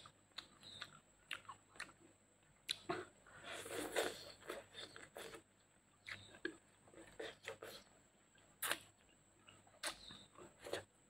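Quiet close-up chewing and mouth sounds of someone eating papaya-leaf greens by hand: irregular wet smacks, small clicks and a few crunches.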